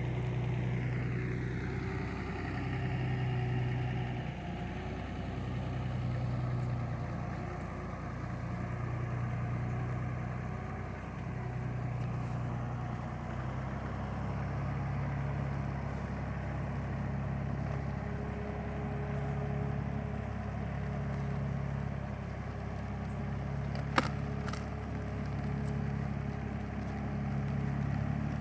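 An engine running steadily, its low hum swelling and fading every couple of seconds, with one sharp click near the end.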